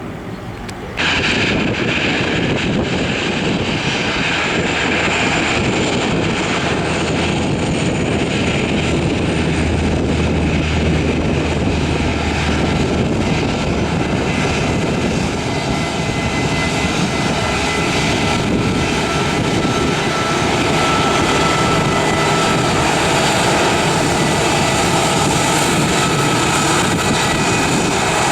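Aircraft engines running loud and steady, with a thin high whine over the noise; the sound jumps up sharply about a second in.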